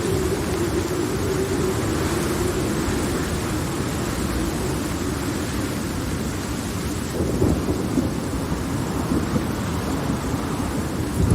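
Steady heavy rain with rolling thunder: a low rumble builds about seven seconds in, and a louder thunder surge breaks near the end.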